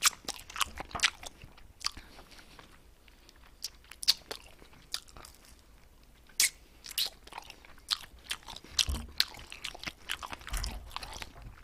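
A person biting and chewing a soy-garlic glazed chicken wing: irregular crisp crunches and clicks, with a couple of quieter stretches between them.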